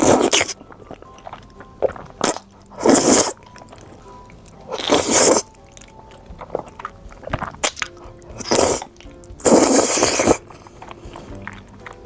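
Close-miked eating of spicy noodles and seafood: loud crunchy bites and chewing that come in about five bursts, with small mouth clicks between them, over background music.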